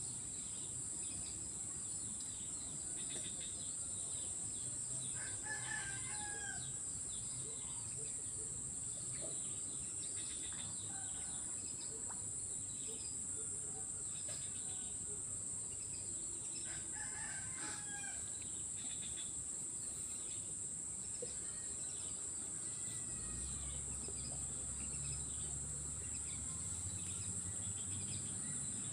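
A steady, high-pitched insect drone from the swamp, with scattered bird calls; two longer pitched calls stand out about 6 and 18 seconds in. A low rumble grows stronger near the end.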